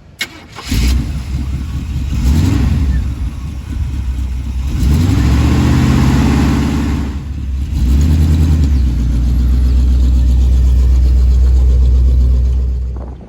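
1985 Chevy K20 Squarebody pickup's engine starting, catching under a second in, then revved up a few times before settling into a steady idle.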